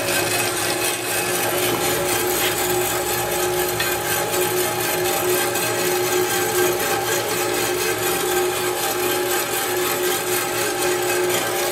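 Valuemaster 9-inch geared-head band saw with a three-phase motor, running at its low speed. It makes a steady whine over a wide hiss, with no change in pitch or level.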